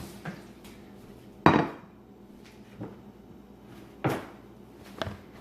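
Four knocks and clatters of kitchen dishware being handled and set down, the loudest about a second and a half in.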